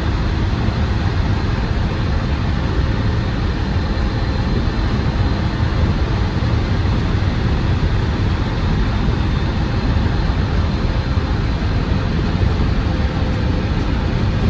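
Inside the cab of a Land Rover Defender 110 on the move: its Td5 five-cylinder turbodiesel runs steadily under road and wind noise, with no change in pace.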